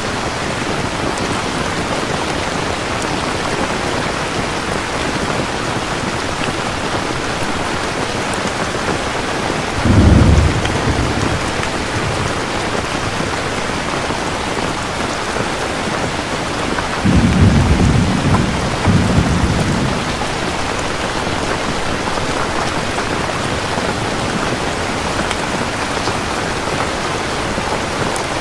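Steady heavy rain falling, with a short low thunder rumble about ten seconds in and a longer rolling rumble of thunder a little past halfway.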